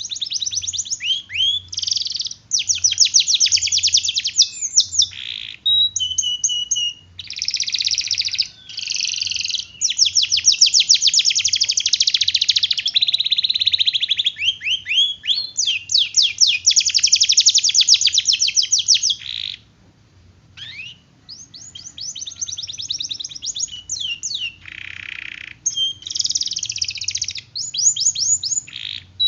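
Domestic canary singing long rolled trills: fast strings of high, rapidly repeated notes in extended phrases, broken by a brief pause about twenty seconds in.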